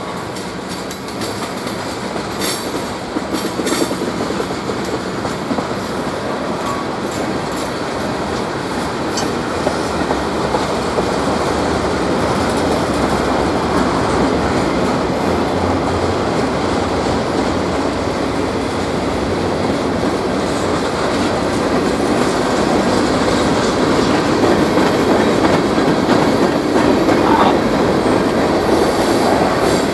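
Train rolling past, a steady rumble and rush of railcar wheels on the rails that slowly grows louder, with a few sharp clicks in the first several seconds.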